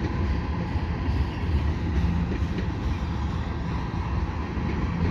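Cars of a long freight train rolling past in a steady low rumble of wheels on rail, with crossing bells ringing faintly in the distance.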